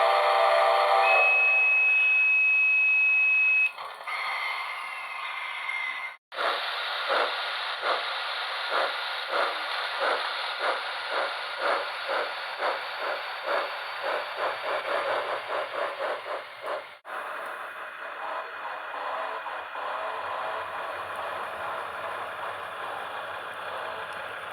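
Steam locomotive sounds for a D51: a chord whistle ending about a second in, then a steady high tone. After a cut come regular exhaust chuffs at about two a second. After another cut near the end, a steadier running noise with faint beats follows.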